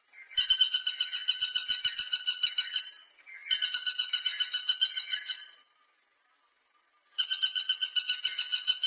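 Woodpecker calling in fast rattling series of high notes, about ten notes a second, in three bouts of two to two and a half seconds with short silences between.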